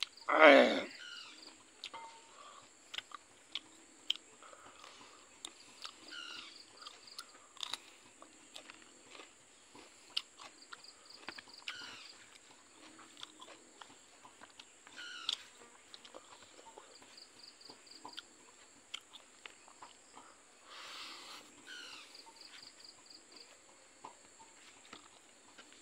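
Close-up mouth sounds of a person eating silkworm pupae and rice by hand: wet chewing, smacking and small clicks scattered throughout, with one much louder burst about half a second in.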